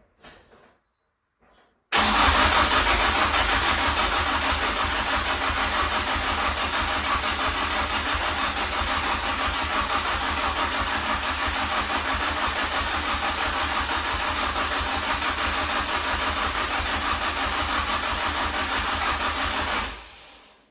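Car engine, freshly rebuilt, firing into life on its first start: it catches suddenly about two seconds in, runs steadily and loudly, then dies away near the end.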